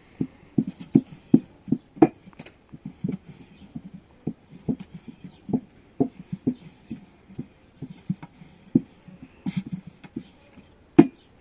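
Knife chopping potatoes on a cutting board: a run of short, dull knocks, about two to three a second and somewhat uneven, with one sharper knock near the end.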